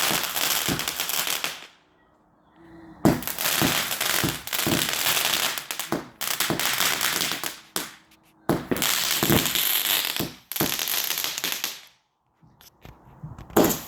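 Fireworks going off in a rapid barrage of bangs and crackling, in several long bursts with short pauses about two, eight and twelve seconds in.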